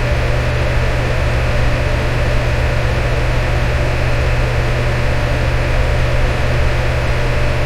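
Electric fan running steadily: an even whooshing hiss over a deep motor hum, with a faint steady tone in the middle.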